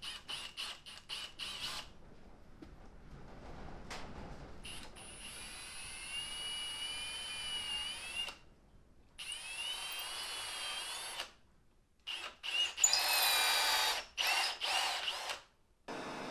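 Electric drill running in several separate bursts that cut off suddenly, its whine wavering up and down in pitch as it works.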